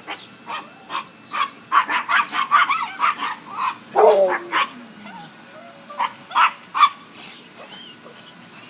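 Pet dogs barking in quick runs of short yaps, with a long falling whine about four seconds in and a few more barks near the end.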